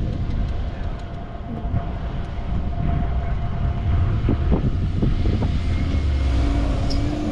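4x4 SUV engine running with a steady low rumble, and a second steady hum coming in near the end.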